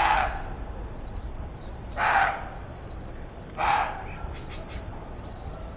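Steady high-pitched chorus of insects such as crickets, with three short, louder rasping bursts about two seconds apart.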